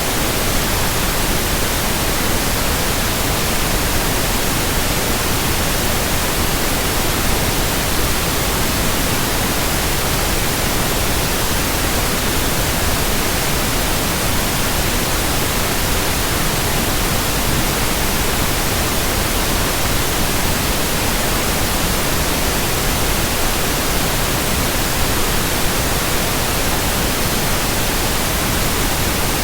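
Steady white noise: an even, unchanging hiss across all pitches, with no rhythm and no blade swish.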